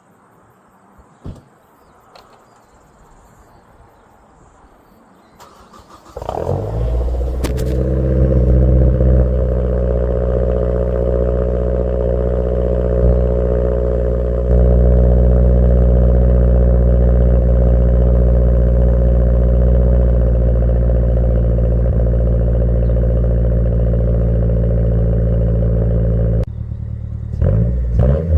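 Mazdaspeed 3's turbocharged 2.3-litre four-cylinder with the exhaust resonator deleted, cold-started: it cranks briefly about five seconds in, catches with a loud flare and settles into a loud, steady high idle. The idle gets louder about halfway through, drops near the end, and then the engine is revved briefly a couple of times.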